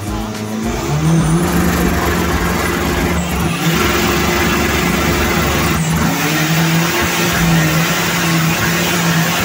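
Race car engine heard from inside the cabin, running hard at high revs under acceleration. Its steady tone breaks off and picks up again twice, around three and a half and six seconds in.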